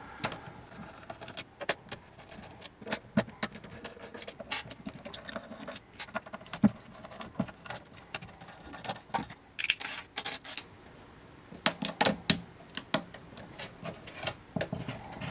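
Irregular clicks and clatter of hand tools and small parts being handled while the front panel of an aircraft control box is removed, with a denser run of knocks about twelve seconds in.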